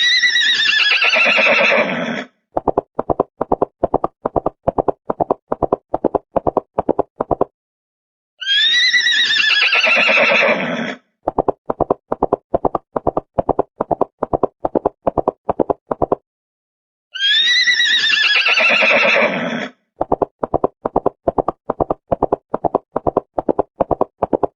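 A horse whinnying, followed by a run of clip-clopping hoofbeats. The same whinny-and-hoofbeats sequence repeats three times, about every eight and a half seconds, with short silences between.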